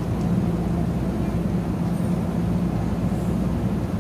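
Steady low hum of an NJ Transit multilevel commuter train standing still at the platform, with an even pitched drone that does not change.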